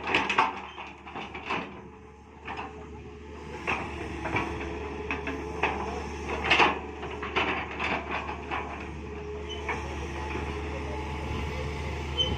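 Mini excavator running with a steady low engine hum, over which come repeated short knocks and clanks.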